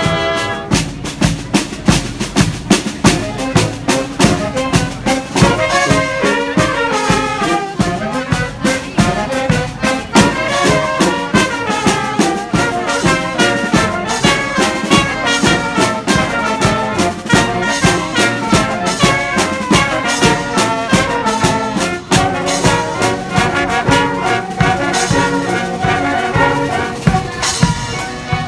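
Live brass band playing an upbeat tune: trumpets and trombones over a steady drumbeat.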